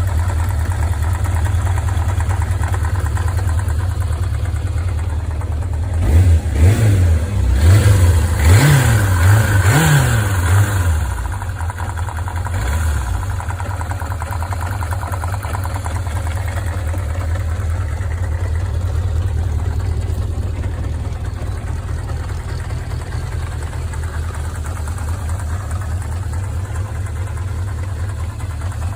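Zephyr engine idling just after a hot start, blipped several times in quick succession about six to eleven seconds in, then settling back to a steady idle. The owner calls its rattly running normal for a Zephyr.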